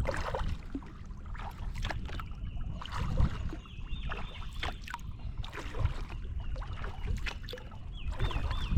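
Kayak paddle dipping and dripping in slow, irregular splashes, with a low wind rumble. A bird calls a short wavy phrase of three quick notes about four seconds in and again near the end.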